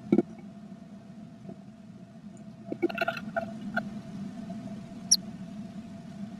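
Blue tit moving about inside a wooden nest box: scattered taps and scratches of claws and beak on the wood and nest material, a cluster of them a few seconds in, over a steady electrical hum from the nest-box camera.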